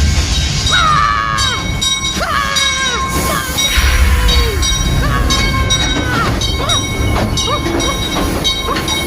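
Mine-ride train rumbling steadily along the track, with several short pitched calls over it that each hold and then fall in pitch.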